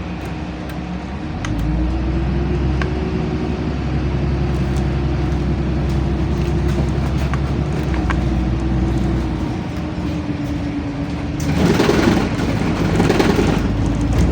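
Inside a LiAZ-5292.65 city bus: the engine and drivetrain run steadily, with a deeper rumble setting in about a second and a half in as the bus takes up load, and occasional light rattles. Near the end comes a loud burst of hissing noise lasting a couple of seconds.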